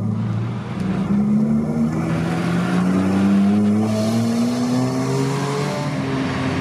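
A car's engine pulling away under acceleration, its pitch climbing steadily for several seconds.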